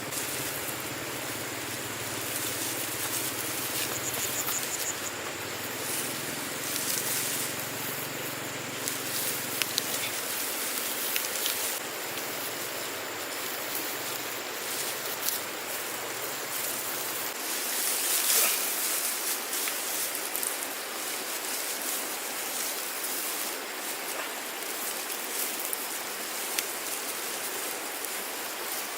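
A steady outdoor hiss with scattered light rustles and taps, and a brief louder swell about two-thirds of the way through.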